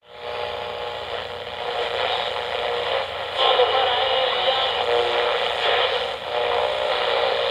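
Train sound effect from an old radio broadcast recording: a steady rushing noise with faint held tones, growing louder about three and a half seconds in.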